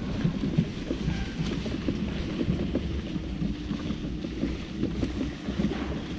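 Mini Crosser mobility scooter driving along a rough path: a steady motor hum under a low rumble, with many small rattles and knocks from the tyres and chassis over the ground, and wind on the microphone.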